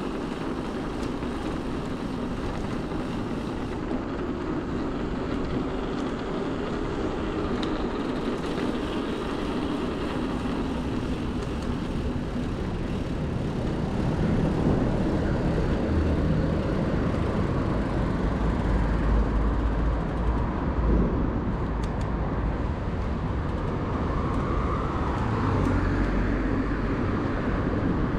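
Bike-mounted recording of city traffic noise and wind rumble on the microphone while riding. The low rumble grows heavier from about halfway through.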